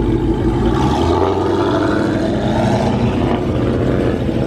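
Car engine running loudly. It swells in a rev about a second in and eases back after about three seconds.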